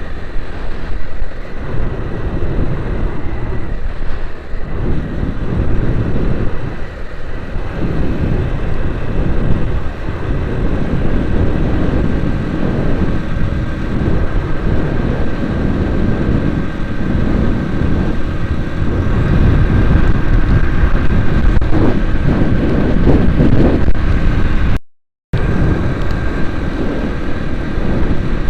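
A vehicle driving: steady engine and road noise, a little louder in the last third. The sound cuts out completely for about half a second near the end.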